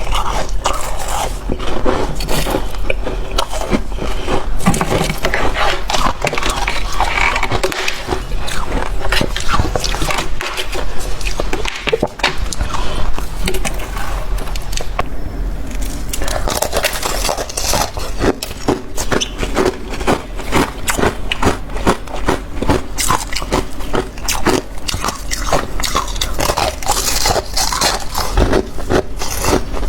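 Close-miked chewing of freezer frost, with dense rapid crunching and crackling as the powdery ice is bitten and ground between the teeth.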